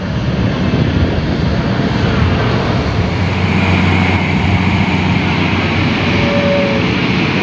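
Diesel engine of a long-arm excavator running steadily under load, a continuous low drone with a higher whine that grows stronger about halfway through.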